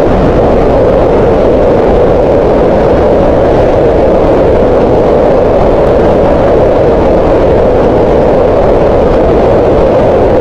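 Green noise: a loud, steady synthetic rushing hiss weighted toward the middle pitches, thinner in the highs, with no change.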